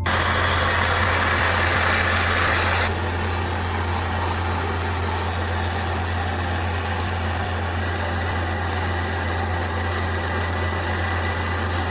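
A motor running steadily: an even rushing noise over a low hum, with the higher part of the noise dropping back about three seconds in.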